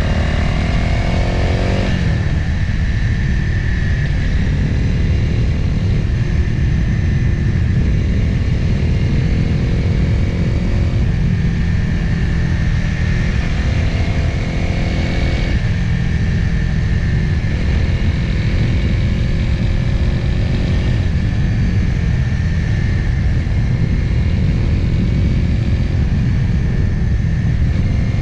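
Motorcycle engine heard from the bike while riding downhill, with heavy wind rush on the microphone. The engine note shifts pitch several times, about two, eleven, fifteen and twenty-one seconds in.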